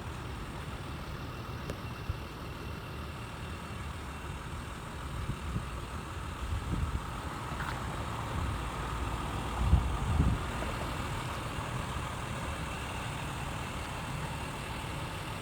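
Large truck engine idling steadily with a low rumble, with a couple of louder low thumps about ten seconds in.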